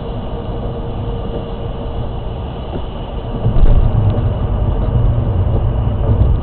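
Road noise inside a moving car: engine and tyres on wet pavement, a steady rumble that grows louder about three and a half seconds in.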